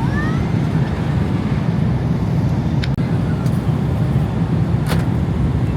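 Steady low rumble of jet airliner cabin noise in flight, with a couple of faint clicks.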